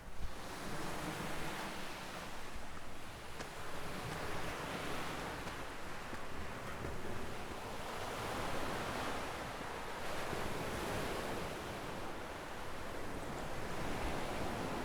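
Waves breaking and washing up a sandy shore, the surf swelling and easing every few seconds, with wind buffeting the microphone.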